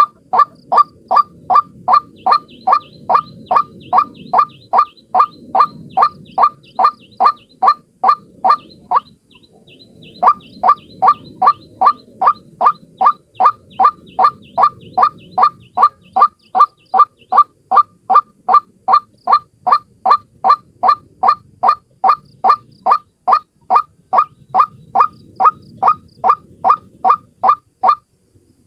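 White-breasted waterhen calling, a single bird repeating a short, loud 'kwak' note about two to three times a second in a long monotonous series, broken once by a brief pause about nine seconds in. It is a recorded lure call used to draw in waterhens.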